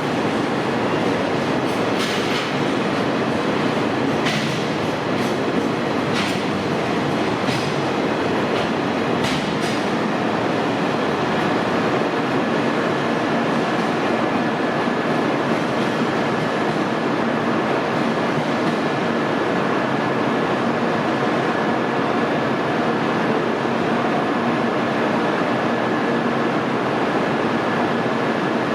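Freight train hauled by an ED76 electric locomotive rolling past at low speed: a steady rumble of wheels on rail, with wheels clicking over rail joints several times in the first ten seconds, then a thin steady high squeal.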